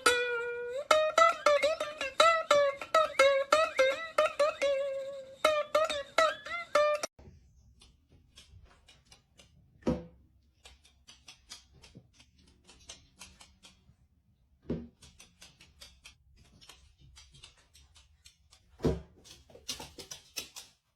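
Plucked strings being strummed, with a held, wavering high voice over them for about seven seconds; then it turns quiet, with a few scattered knocks.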